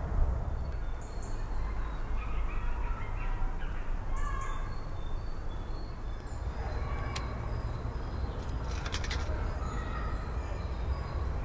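Birds calling in short scattered calls over a steady low rumble, with a sharp click midway and a few more clicks a couple of seconds later.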